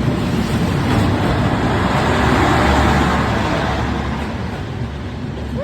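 Train rolling past at close range: a loud, steady rumble of wheels on track that starts suddenly, swells toward the middle and eases off near the end.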